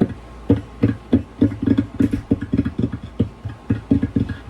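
Electric cigar box guitar played through an amp: a quick, uneven run of short low notes over a steady hum.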